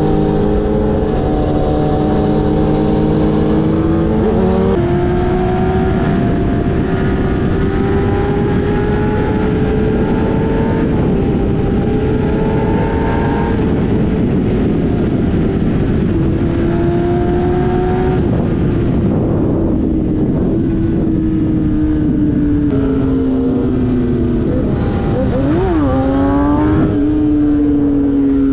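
Sportbike engine running at speed under a rush of wind noise. Its pitch shifts abruptly about four seconds in, climbs slowly, and falls near the end with a few quick rev blips as the bike slows.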